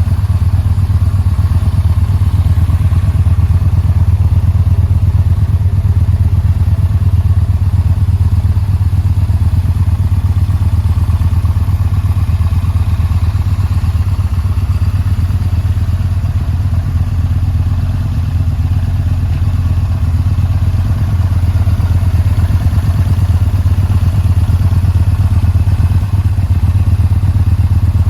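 Yamaha Bolt's air-cooled V-twin engine running steadily at a low, even speed, with a fast, regular pulsing of exhaust beats and no revving.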